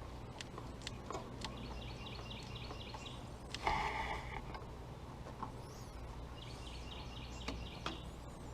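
A bird in the background singing short runs of quick, evenly spaced high chirps, twice, over a low steady hum. There are scattered light clicks, and a brief rattle about four seconds in.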